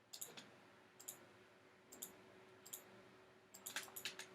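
Computer mouse clicking: about ten sharp, quiet clicks, spaced irregularly, with a quick cluster near the end, over a faint steady hum.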